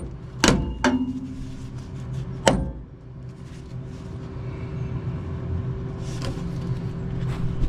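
Three sharp knocks, one ringing briefly, followed by a steady low mechanical hum that swells slightly toward the end.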